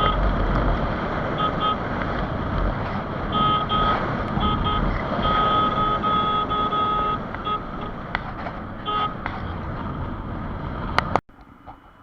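Wind and road noise on the microphone of a moving motorbike, with a vehicle horn honking in short toots, several in pairs, and one long blast of about two seconds a little past the middle. About eleven seconds in, the rushing noise cuts off abruptly to a much quieter background.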